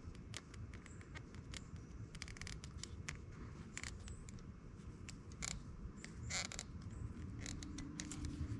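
Irregular small metallic clicks and scrapes of a hand wrench or ratchet working on the carburetor's mounting bolts, over a low steady rumble.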